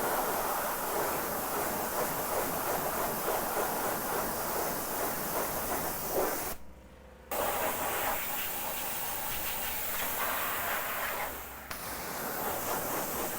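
High-pressure water spray hissing steadily as a wheel is rinsed, cutting out briefly about halfway through.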